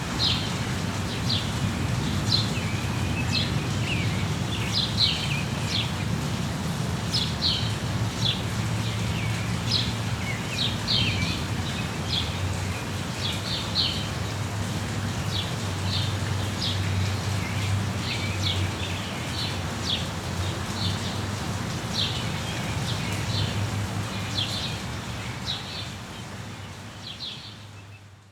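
Small songbirds chirping over steady rain, many short chirps in quick succession. Near the end the whole sound fades out.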